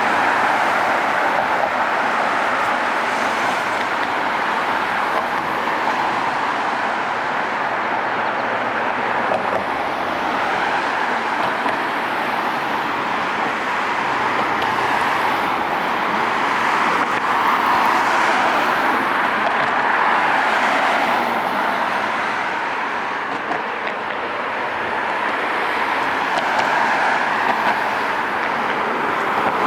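Steady road traffic noise, the sound of passing cars rising and falling gently.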